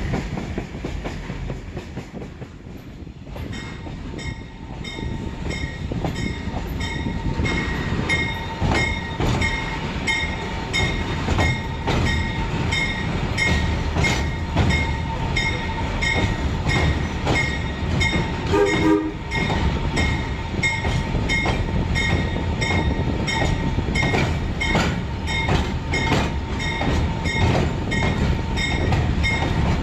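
A train rolling along, heard from aboard: a steady rumble with a regular clickety-clack of wheels over rail joints, growing louder a few seconds in as the cars run onto a steel girder bridge, with a faint steady ringing tone over it. A brief higher pitched sound comes about two-thirds of the way through.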